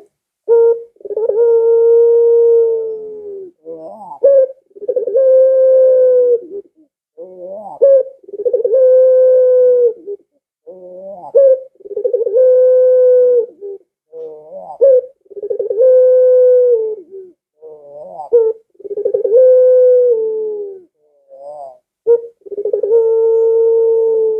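Barbary dove (burung puter, pelung type) cooing over and over: each coo opens with a short quavering note and then holds a long, steady low tone for about two seconds, about every three to four seconds.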